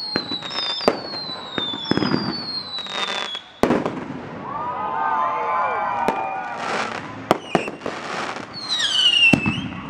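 Consumer aerial fireworks going off, with sharp bangs of bursting shells. Several whistles fall in pitch over the first few seconds, a tangle of swirling whistles comes in the middle, and one more falling whistle sounds near the end.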